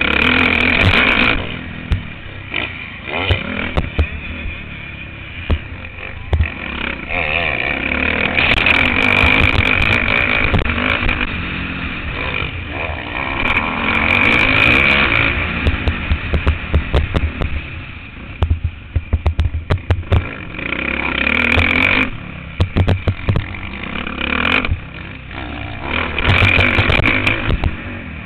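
Motocross bike engine heard from an on-board camera, pulling hard in long sustained stretches and dropping back between them into choppy, stuttering bursts as the throttle comes off and on around the track.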